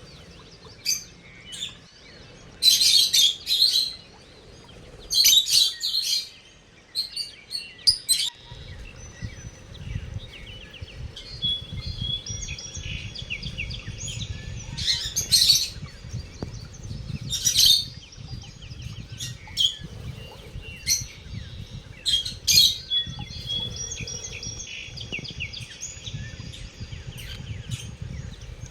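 Lovebirds calling in clusters of loud, high-pitched chirps, with softer twittering between them. A low, steady rumble comes in after several seconds.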